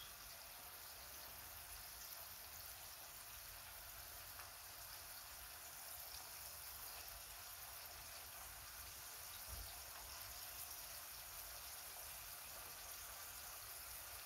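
Faint, steady sizzle of food frying in oil in a pan on a gas stove.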